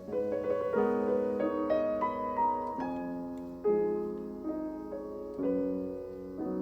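Background music: a gentle solo piano playing a slow melody with sustained chords.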